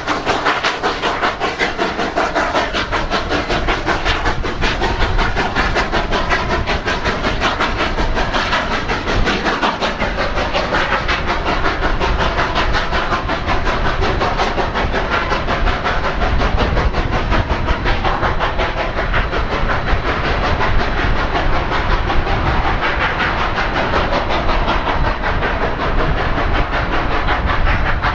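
Narrow-gauge steam locomotive running with its train: a loud, steady mix of steam, exhaust and wheels on the rails.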